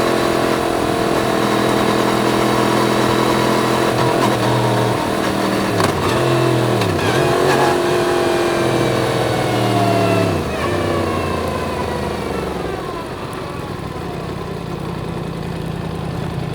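Yamaha MT-10's crossplane inline-four engine running on the road. Its pitch dips and climbs a few times about four to eight seconds in, then falls away about ten seconds in as the bike slows, settling to a quieter, lower, steady note.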